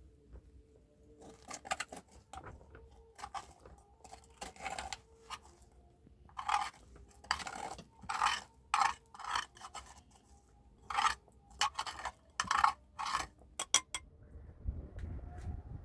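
A run of short, irregular scraping strokes, about a dozen over some twelve seconds, with the kind of sound of a hard utensil or tool scraping a surface; a low rumble comes in near the end.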